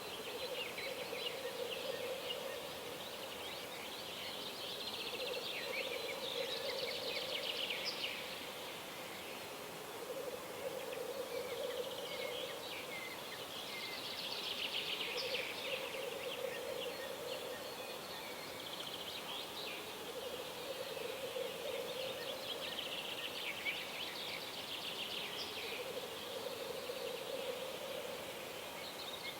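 Birds singing, with high song phrases repeating every few seconds, over a low buzzing sound that swells and fades about every three seconds.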